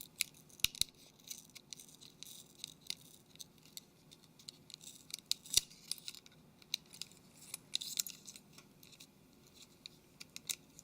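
Light, irregular clicks and scratches of a thin blade working under a phone's flex cable to free it from double-sided tape.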